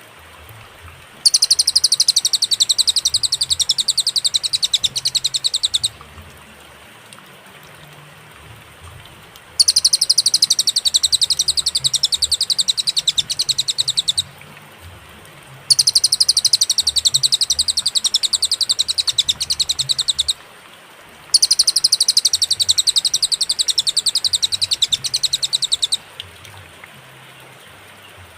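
Cililin (little spiderhunter) singing: four long, fast, high-pitched trills of rapidly repeated notes, each about five seconds long, with pauses of a few seconds between them. A faint steady hiss lies underneath.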